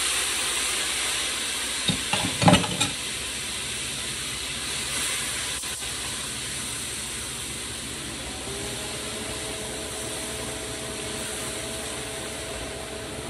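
Onion, pepper and tomato seasoning sizzling in hot oil in a frying pan, the sizzle getting gradually quieter. About two seconds in, a wooden spoon knocks against the pan a few times while stirring.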